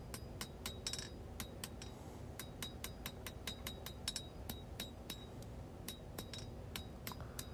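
Hand hammer striking hot 1095 steel on an anvil, forging the front of a knife handle: sharp blows about three a second in short runs, each with a brief metallic ring.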